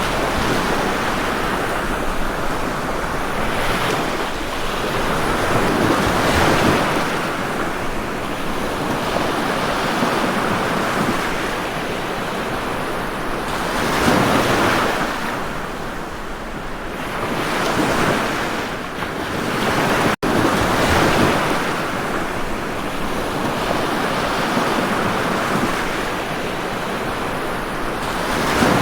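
Ocean surf: waves breaking and washing ashore, swelling and easing every few seconds. About 20 seconds in there is a momentary dropout in the sound.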